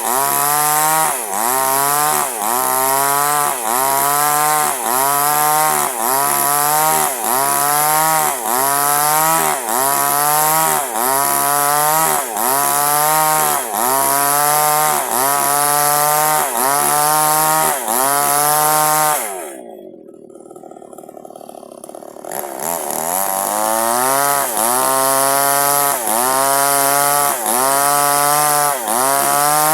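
Two-stroke chainsaw cutting durian wood. Its engine pitch dips and recovers about once a second under the load of the cut. About two-thirds of the way in, the throttle is let off and the saw idles for a few seconds, then revs back up and carries on cutting in the same rhythm.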